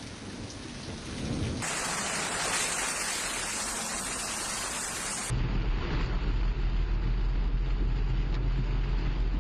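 Heavy rain pouring, a dense steady hiss that changes abruptly at cuts: louder and brighter about a second and a half in, then from about five seconds in a deep, continuous rumble under the rain.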